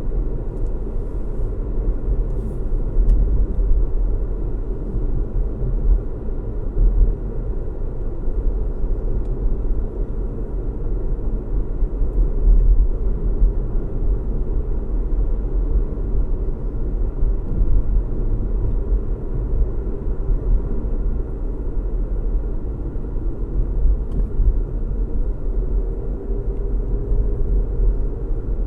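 Car driving at a steady speed: a constant low rumble of engine hum and road noise, with nothing sudden in it.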